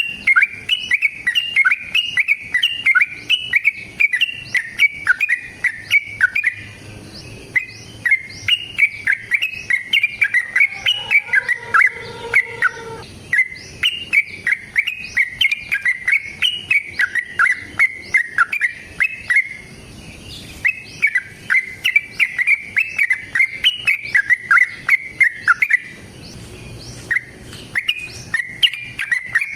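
Yellow-vented bulbul (trucukan) singing long, rapid strings of short chirping notes, several a second. The strings break off in brief pauses about every six or seven seconds.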